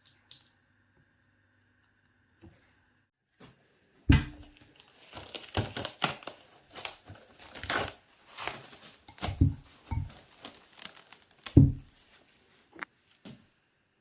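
Crinkly material being crumpled and torn in irregular bursts for several seconds, with a few dull thumps among them.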